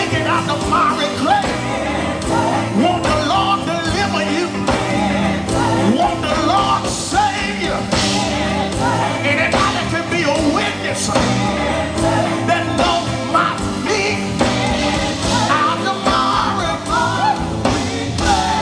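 Live gospel quartet music: singers with electric guitar, bass, keyboard and drums playing a driving song, with wavering lead vocal lines over the band.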